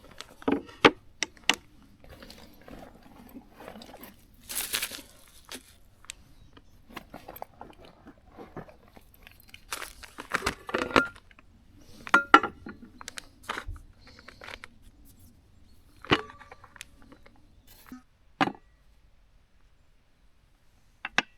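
Irregular handling noises: sharp clicks and knocks mixed with crunching and rustling. They come in clusters in the first two seconds and again around ten to thirteen seconds in, with single knocks later on.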